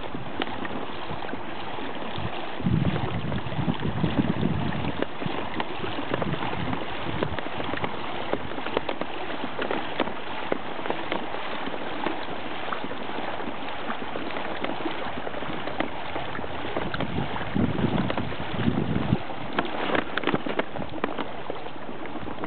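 River water rushing and splashing around a kayak, with wind buffeting the microphone in a few low gusts.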